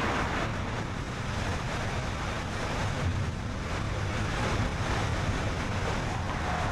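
Steady road noise of a car driving at speed: tyres on asphalt and wind rushing past, over a low rumble.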